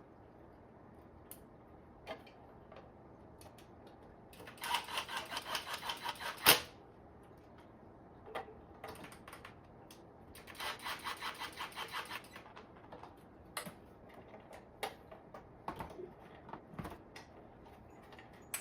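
Two runs of rapid ratcheting clicks, about six a second and each lasting about two seconds, with scattered single clicks and knocks between them.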